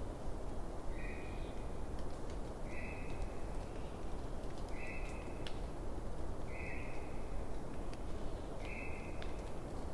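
Wood fire crackling with a steady hiss and scattered sharp pops, under a night animal's short, flat, high call repeated five times, about every two seconds.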